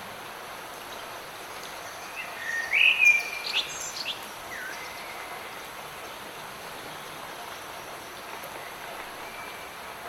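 Steady hiss of light rain, with a songbird singing a short burst of whistled, sliding notes a couple of seconds in.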